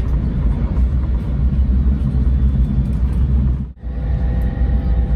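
Steady low rumble of a shinkansen running at speed, heard inside the passenger car. It cuts out for a moment about three and a half seconds in, then resumes with a faint steady whine added.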